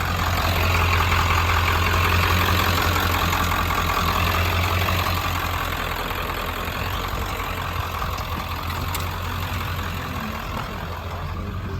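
Ford F350's 7.3-litre V8 turbo diesel running steadily with a low hum. It gets a little louder about a second in and settles back after about five seconds.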